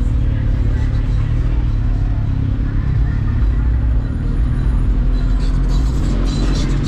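Sport motorcycle engine running steadily at an even pitch with no revving, under a wash of road and wind noise.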